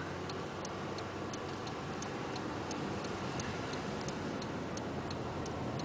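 Vehicle turn signal clicking steadily, about three clicks a second, over a low steady hum of the running vehicle.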